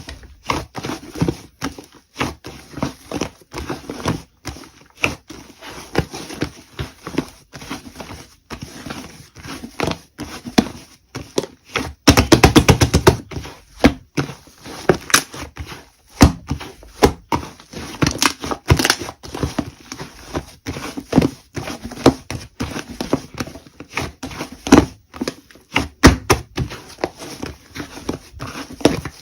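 Slime being squeezed and pressed by hand, giving irregular sticky pops and clicks, with a fast, louder run of pops about twelve seconds in.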